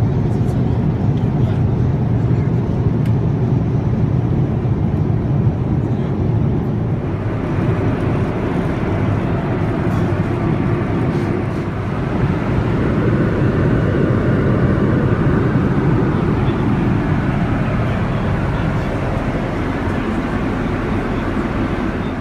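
Steady engine and air noise inside the cabin of a Boeing 787-9 airliner in motion. The noise grows brighter and a little louder from about seven seconds in.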